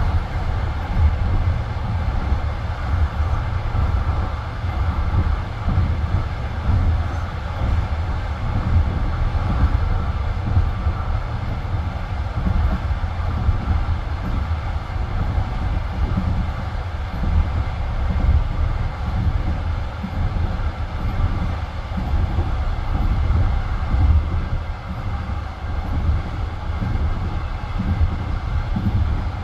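Passenger railway carriage rolling at speed on the open line: a steady, loud rumble of wheels on rails, with irregular knocks and clatter, heard from inside the carriage.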